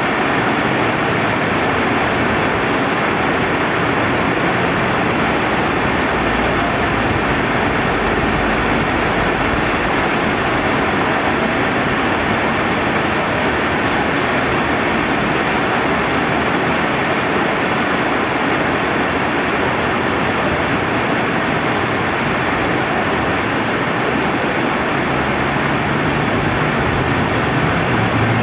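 Steady rain with a flowing river: an even, dense hiss that holds at the same level throughout.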